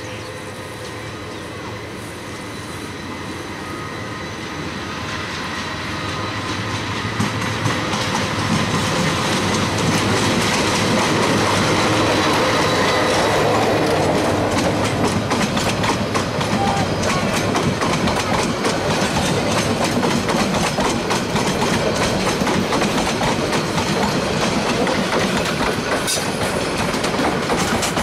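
Diesel-hauled passenger train passing close by. The sound builds over the first several seconds as the locomotive nears, then settles into a steady, loud clatter of coach wheels over the rails.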